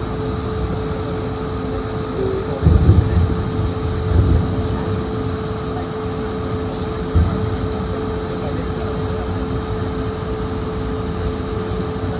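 Steady cabin noise inside an Airbus A220-100, an even hum with a constant tone running through it. A few low bumps come through, about three seconds in, again a second or so later, and once near the middle.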